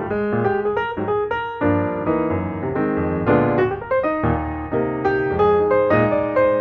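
Background piano music, a run of notes and chords at a lively pace.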